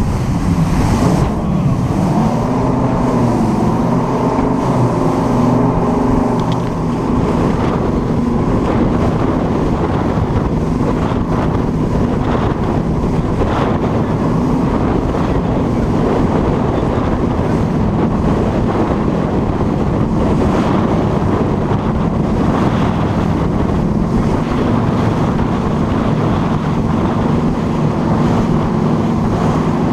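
Yacht tender's engine running under way, its pitch dipping and recovering in the first few seconds and then steady, with water rushing past the hull and wind buffeting the microphone.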